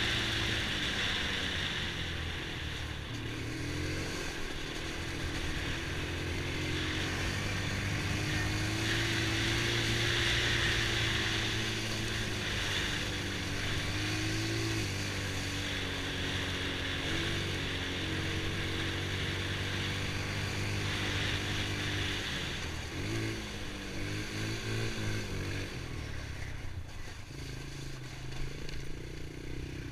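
Honda TRX90 ATV's small single-cylinder four-stroke engine running while riding, its pitch rising and falling with the throttle, with a steady hiss over it. About 23 seconds in the engine note changes quickly several times, then settles lower and quieter near the end.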